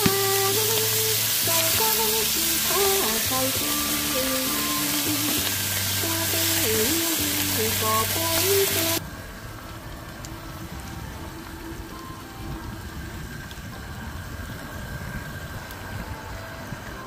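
Leafy greens sizzling as they fry in a pan on a camp stove, with a background music melody over them. Both cut off abruptly about nine seconds in, leaving a much quieter low, steady rumble.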